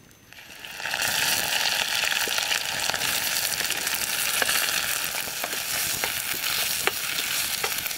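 Ingredients for a gravy going into hot cooking oil. The frying sizzle swells up about a second in and then holds steady, with scattered sharp pops.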